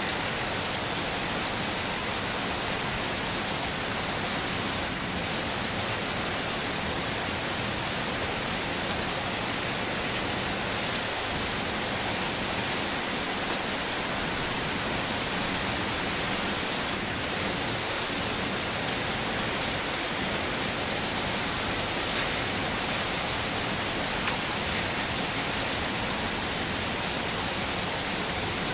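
Heavy rain falling steadily, an even hiss with no thunder. The high end drops out for a moment twice, about five seconds in and again around seventeen seconds.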